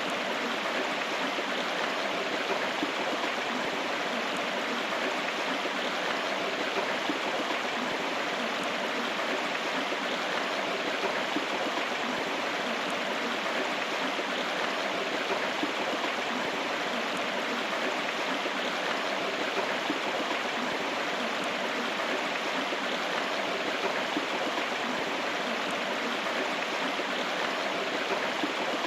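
River water flowing steadily, a constant rushing without breaks.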